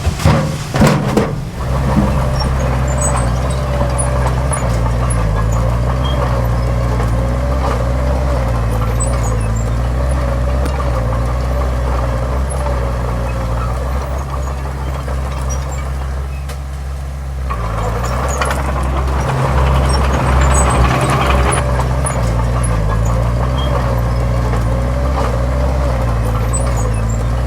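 Heavy diesel earthmoving machinery running steadily, a low engine drone with a wavering whine above it. There are a few sharp knocks in the first second or so, and the engine eases off briefly about two-thirds through before working louder again.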